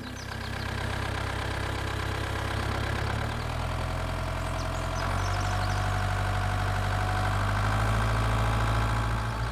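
An engine running steadily at idle with a low, even note, shifting slightly about three seconds in and again about five seconds in.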